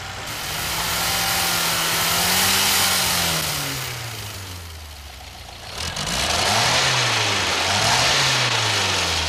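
Car engine revved by hand at the throttle: one long, slow rise and fall in engine speed, then two quicker revs near the end.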